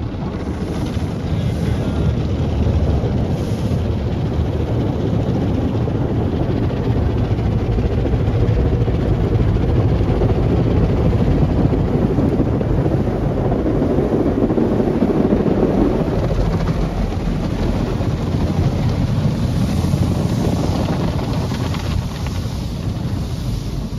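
Automatic car wash running its shampoo wash: rotating brushes and water jets working over the car, a loud, steady rushing noise that swells about halfway through.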